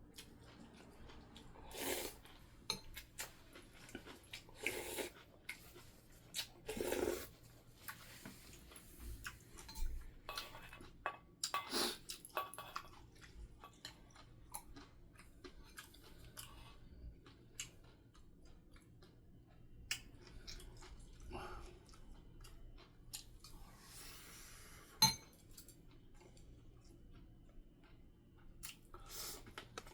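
A person chewing a meal of spicy yellow croaker stew and rice, with irregular clinks of cutlery against dishes; one sharp clink about 25 seconds in is the loudest sound.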